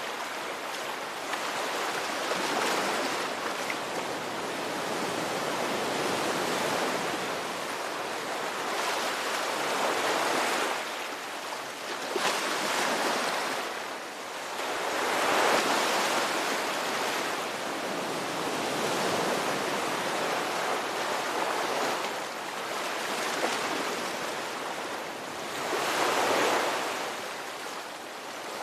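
Ocean waves breaking and washing ashore in a continuous rushing surf, swelling and ebbing every few seconds, with the biggest surges about halfway through and near the end.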